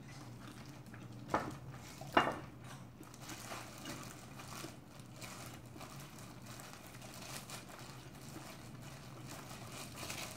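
Chewing of crunchy pork cartilage (odolppyeo), with two sharp crunches less than a second apart near the start. After that comes a soft crinkle of thin plastic food gloves as rice is squeezed into a ball.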